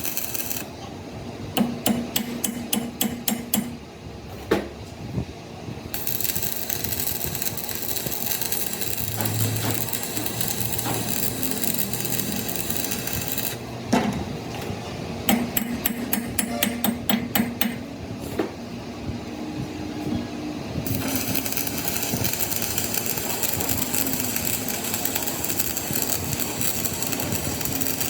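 Metal being struck in quick bursts of hammer blows, about five a second, with a few single heavier knocks. Long stretches of steady hissing noise come between and after the bursts.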